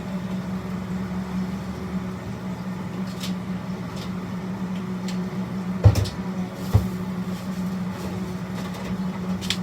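Steady low machine hum in a food truck kitchen, with scattered light clicks and clatter of containers and lids being handled. A sharp knock comes about six seconds in, the loudest sound, and a smaller one follows shortly after.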